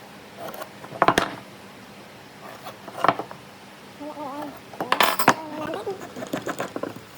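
A few sharp knocks and clinks, spaced irregularly, with the busiest cluster about five seconds in, and brief snatches of a person's voice in between.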